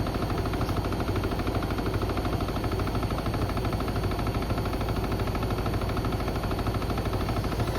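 Beko WM74135 washing machine running, with a steady, rapid metallic rattling and clattering from a toaster and kettle loaded in its drum.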